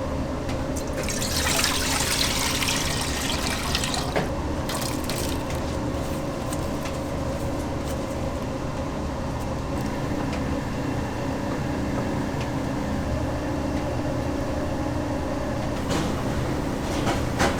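Water running or pouring, a steady hiss that is strongest in the first few seconds, over a steady low hum.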